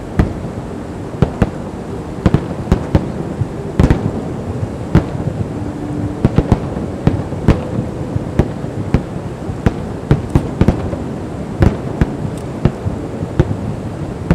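Fireworks bursting: a continuous run of sharp bangs at irregular intervals, a few a second, over a steady rumble, with one heavier bang about four seconds in.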